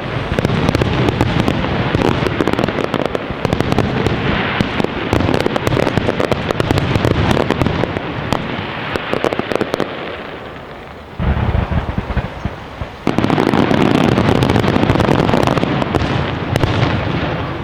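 Professional fireworks display: a dense, continuous barrage of shell bursts and crackling. It eases off about ten seconds in, then a second loud salvo follows and fades near the end.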